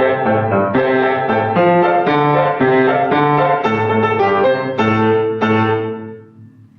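Solo piano playing a lively, detached, toccata-like passage of quick, evenly struck notes and chords. It stops about five and a half seconds in, and the last chord rings away.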